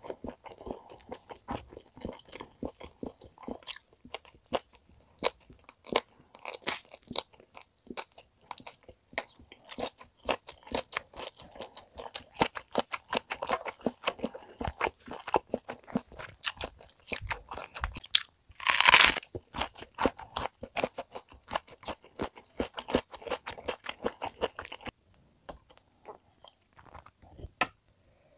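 Close-miked chewing of top blade steak: a dense run of short wet mouth clicks, with one brief louder noise about two-thirds of the way through. The chewing stops a few seconds before the end, leaving a few faint clicks.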